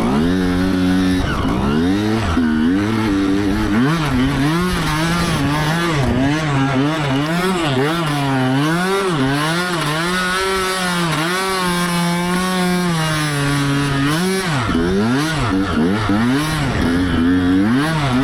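Dirt bike engine revving up and down over and over, its pitch rising and falling with the throttle while it is ridden through deep snow.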